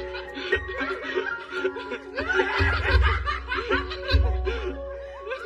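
Someone laughing in quick, short repeated bursts over background music with held notes and a pulsing bass.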